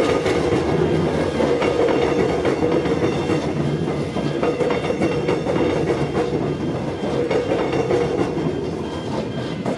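Melbourne suburban electric train running past, its wheels clicking over the rail joints, with the sound easing off near the end.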